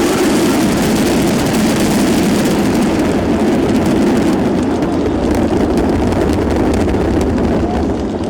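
Fireworks going off in quick succession: a dense, continuous run of bangs with crackling.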